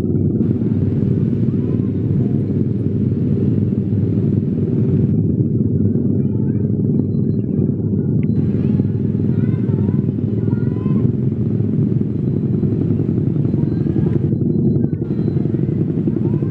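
Train passing at speed close by: a loud, steady low rumble.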